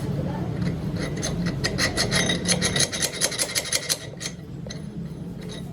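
A run of quick metal-on-metal strokes, about six a second, each with a brief metallic ring, stopping about four seconds in and followed by a few single clicks, over a steady low machine hum.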